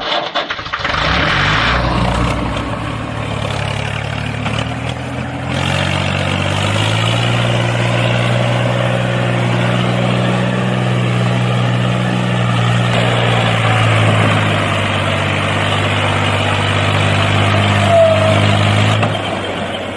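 A motor running steadily. Its pitch rises about six seconds in, holds, and falls away near the end.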